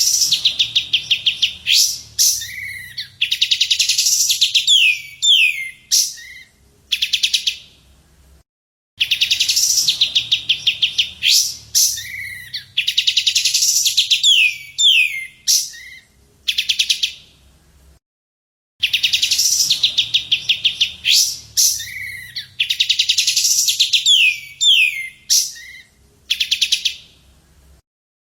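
Songbird song used as a masteran (training song for cage birds): rapid high trills broken by several downward-sliding whistled notes. The same passage of about nine seconds plays three times over, with a short silent break between repeats.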